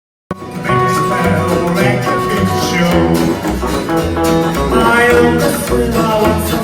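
Live band playing a song: guitar over a steady bass and drum beat. It starts abruptly about a third of a second in.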